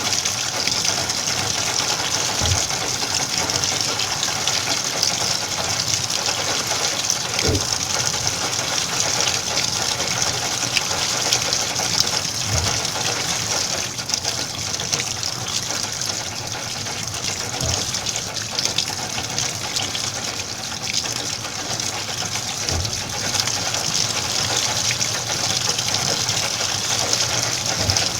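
Washing machine filling with water: a steady gushing hiss, with a soft low knock about every five seconds.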